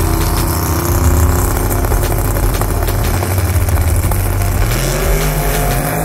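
Drag-racing car engines running at the starting line with a steady low note, then one revs up about four and a half seconds in, its pitch rising.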